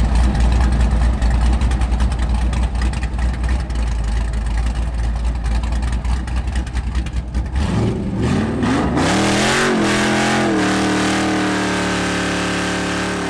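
Cammed LS1 V8 of a fourth-generation Chevrolet Camaro SS idling with a choppy lope, then revving up about eight seconds in and held at high revs through a burnout, the rear tyres spinning and hissing on the asphalt.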